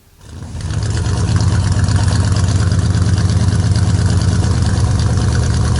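Truck engine running loud and steady: a low exhaust drone with fast, even firing pulses that comes up over the first second and holds without revving.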